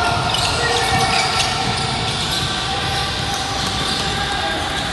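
Basketball game in a gym: a basketball bouncing on the court, with players' voices echoing in the hall.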